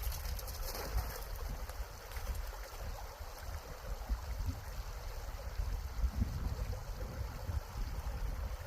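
Wind buffeting the microphone in uneven gusts, over the steady rush of a flowing creek.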